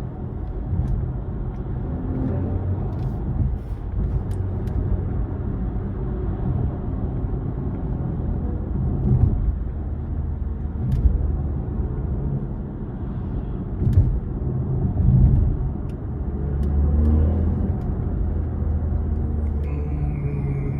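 A car on the move, heard from inside: a steady low engine and road drone that swells now and then, with a few faint light clicks.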